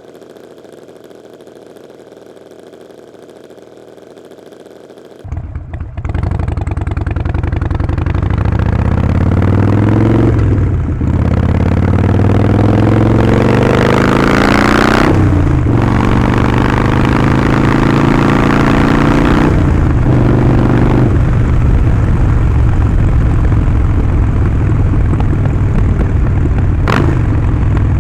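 Harley-Davidson Sportster 48's 1200 cc V-twin through Vance & Hines slip-on exhaust. It is faint at first, then about five seconds in it comes in loud and pulls away, the revs rising in several runs cut by short dips at gear changes, then settles into steady cruising.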